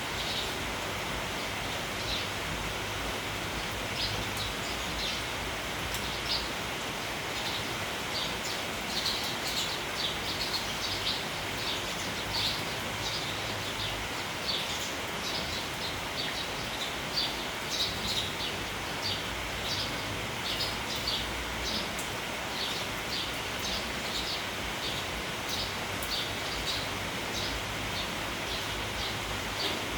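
Steady rain, with a flock of sparrows chirping in many short, rapid calls throughout, thickest in the middle.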